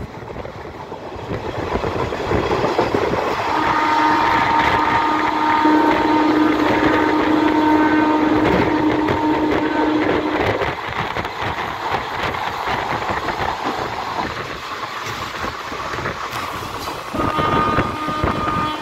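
Moving train heard from an open carriage window: a steady rumble of wheels on rail with some wind. A locomotive horn sounds one long blast of about seven seconds a few seconds in, and a second, higher horn note starts near the end.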